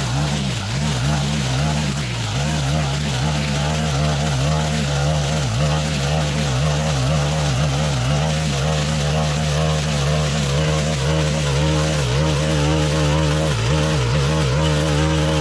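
Stihl FS 131 brushcutter's 4-MIX engine running steadily at high speed while cutting tall grass, with a few brief wavers in the first couple of seconds.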